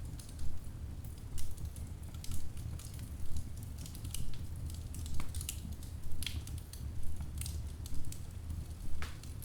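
Wood fire burning in a fireplace: logs crackling and popping, with sharp snaps about once a second over a steady low rumble of the flames.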